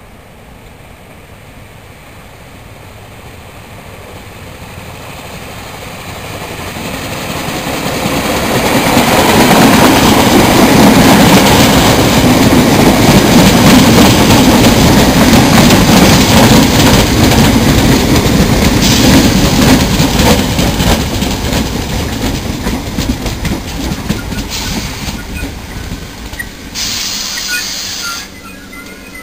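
A First Capital Connect electric multiple unit approaching and running past close along the platform. Its wheel and running noise builds over about ten seconds, stays loud for about another ten as the carriages go by, then tapers, with a few brief hissing bursts near the end.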